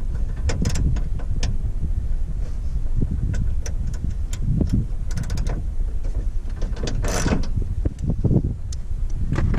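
Irregular metallic clicks and knocks from a hand tool working on a car's trunk latch bolts and trim clips, with a longer scraping rasp about seven seconds in, over a steady low rumble.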